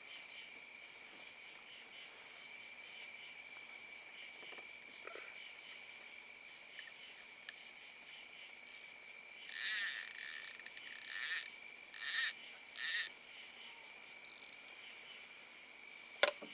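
Night insect chorus of crickets trilling steadily in several high, even tones. In the second half it is broken by a few short, louder rustling noises.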